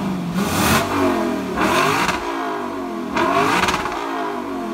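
A car engine revving repeatedly, its pitch climbing and falling in cycles about every second and a half.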